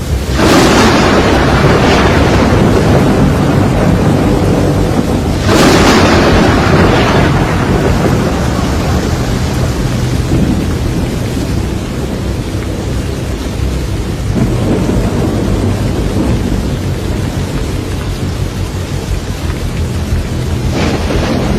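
Hurricane wind and heavy rain roaring without a break, with loud surges about half a second in, around five and a half seconds, and again near the end.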